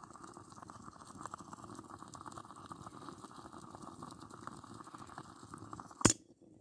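Water heating in a pot over a campfire: a steady bubbling hiss with fine crackles. About six seconds in, a single sharp knock is heard, and then the sound cuts off.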